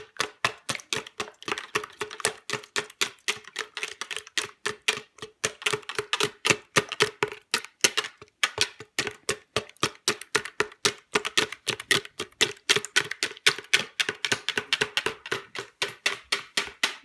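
Wire whisk beating raw eggs in a jug, clattering against its sides in a fast, even rhythm of clicks with a slight ringing note.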